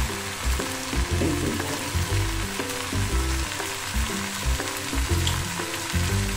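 Small tilapia with potato, brinjal and radish sizzling in oil in an aluminium kadai over a raised gas flame, a steady frying hiss with irregular low thumps.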